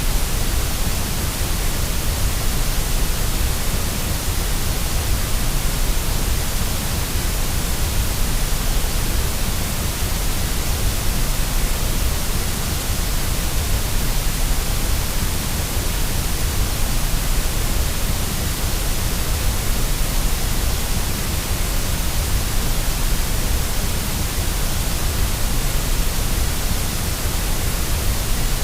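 Steady white noise for baby sleep: an even, unchanging hiss with a heavy low rumble underneath, and no separate sounds in it.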